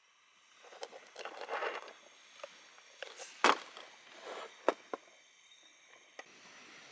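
Objects being handled: rustling and scraping with several sharp clicks and knocks, the loudest knock about halfway through.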